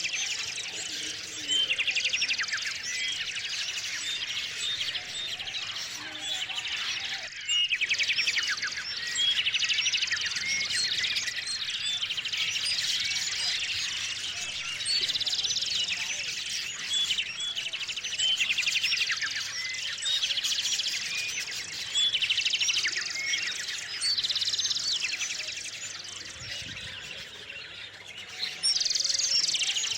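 Small songbirds chirping and calling together. A rapid trilling song, made of fast repeated notes, comes back every few seconds over the steady chatter.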